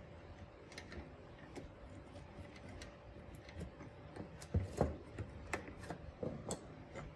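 Small parts and tools being handled on a workbench during a radio-cassette restoration: scattered light clicks and taps, with two louder knocks about halfway through, over a faint steady hum.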